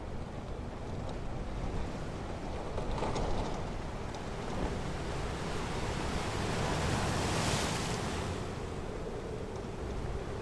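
Ocean surf on a beach: a steady rush of waves, with one wave breaking and washing up in a louder hiss a little past halfway.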